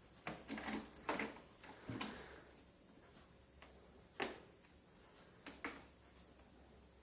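Scattered light knocks and scuffs from a pet moving about on its play tower after a toy duck: a quick cluster in the first two seconds, then single knocks about four and five and a half seconds in.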